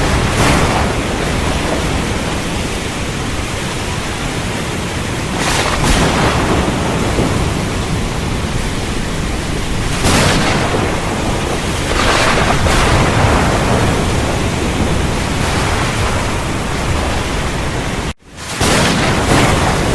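Heavy rain falling steadily, with swells of thunder every few seconds. The sound cuts out for an instant near the end and comes straight back.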